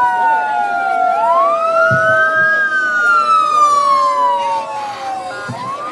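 Several emergency-vehicle sirens wailing at once, their pitches slowly rising and falling out of step with one another, as the vehicles arrive; the sound gets somewhat quieter about five seconds in.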